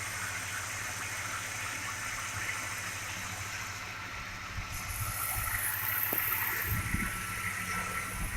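A 1998 Ford F-150's 4.6-litre V8 running smoothly while driving, mixed with road noise, getting a little louder about halfway through. It no longer misfires now that the cylinder 4 ignition coil has been replaced.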